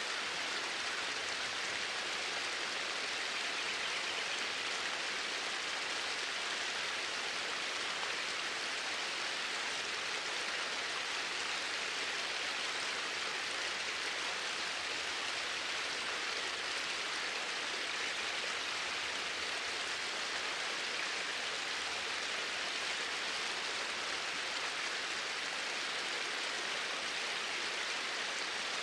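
Water flowing in a stream, a steady even rushing with no change in level.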